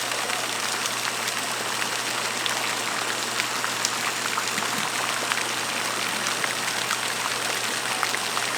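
Steady splashing water: an even hiss thick with small, crisp drip-like ticks.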